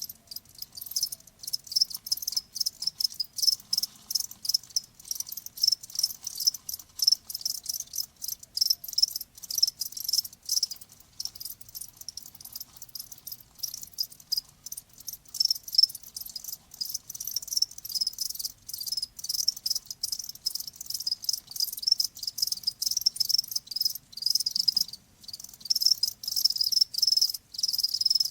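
Crickets chirping continuously in rapid, pulsing trills, pitched high around 5 kHz.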